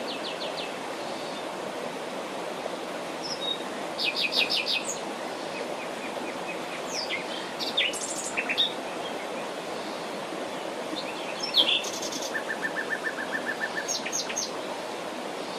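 Several wild birds calling and singing: short high chirps and trills, with a quick run of about ten even notes near the end, over a steady rushing hiss.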